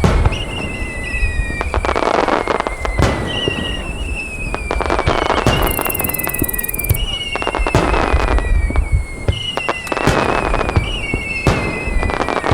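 Fireworks display: a run of overlapping whistling shells, each whistle slowly falling in pitch, with sharp bangs and bursts of crackling stars.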